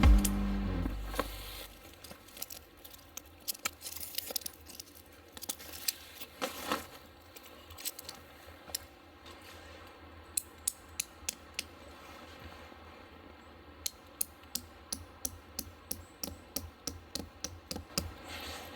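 Guitar music fading out, then irregular sharp clicks and light taps, some in quick clusters, over a faint background.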